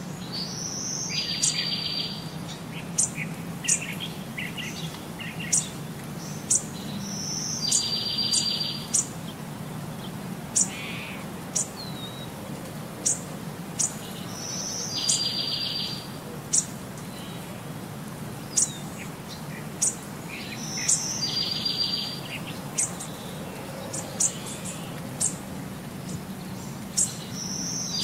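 Birdsong: a short, fast, high trill that comes back about every six to seven seconds, with sharp high chirps about once a second in between, over a steady low hum.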